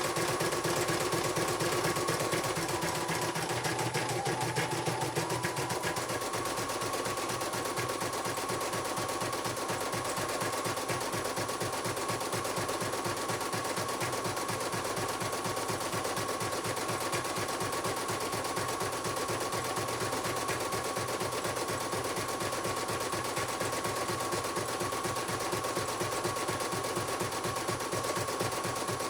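Computerized embroidery machine stitching, its needle bar hammering out a rapid, steady run of clicks over a constant motor whine. The whine's pitch shifts briefly a few seconds in, then the stitching carries on evenly.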